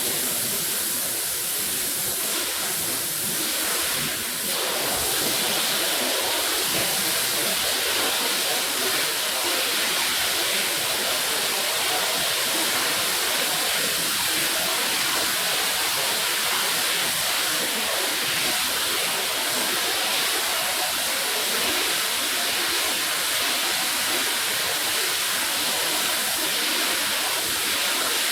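Steady hiss of water spraying onto a rug during a wash or rinse.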